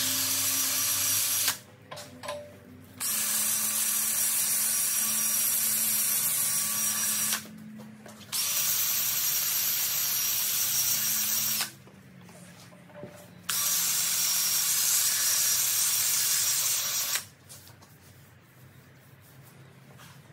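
Handheld electric drill-type power tool running in four separate bursts: one brief run, then three of about three to four seconds each, with short pauses between them.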